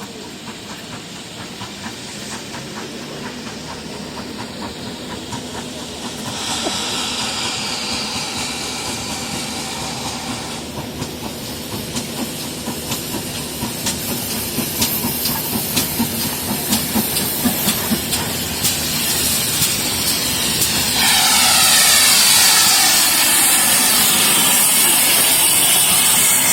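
Steam locomotive hissing steam, the hiss growing louder, with a stronger, fuller blast of steam from about 21 seconds in.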